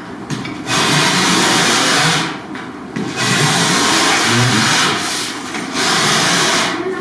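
Edge of a gypsum board being shaved down in three long scraping strokes with short pauses between them, trimming a board that was slightly too big to fit.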